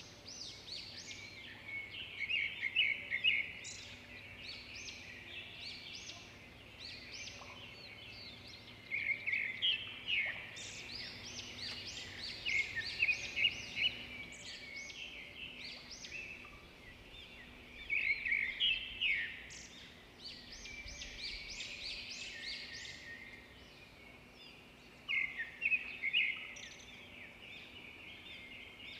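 Small birds chirping, many short calls together, rising into loud flurries of rapid chirping every few seconds.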